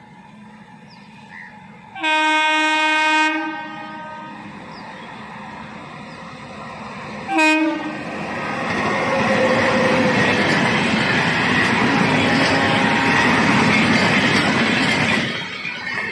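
Indian Railways electric locomotive's horn sounding one long blast of about a second and a half, then a short toot a few seconds later. This is followed by the steady clatter of wheels and coaches as the express passes close by, easing off near the end.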